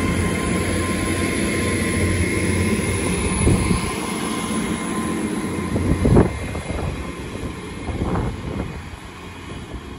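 Hull Trains Class 802 bi-mode train moving through the station on its diesel engines, a steady engine hum with a faint whine. A few heavier knocks come from the wheels on the track, the loudest about six seconds in. The sound fades towards the end as the train draws away.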